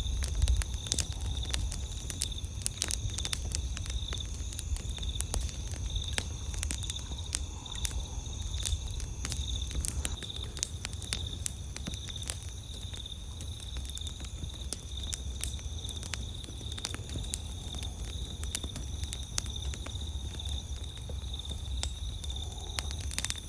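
Wood campfire crackling with irregular sharp pops, over steady high-pitched insect chirping and a low rumble.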